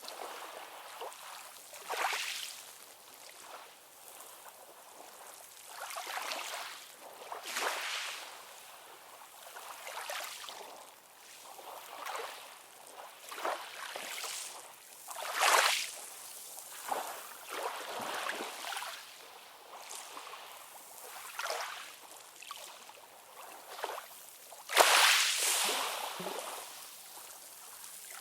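Ocean waves washing in and sloshing, a hiss of water swelling and fading every second or two, with the biggest surge near the end.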